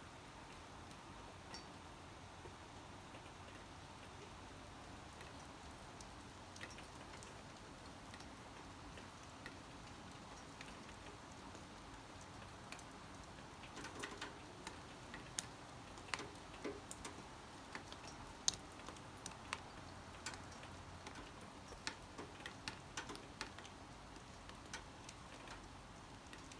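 Scattered raindrops tapping on a surface over a faint steady hiss, the drops coming more often from about halfway through.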